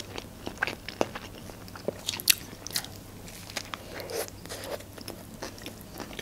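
Close-miked eating of a hot dog with lettuce in a soft bun: biting and chewing, a string of wet mouth clicks and crunches, the sharpest about two seconds in.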